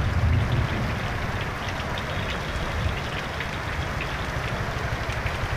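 Heavy rain falling steadily onto a flooded road, an even hiss dotted with the patter of drops, with a low rumble in the first second.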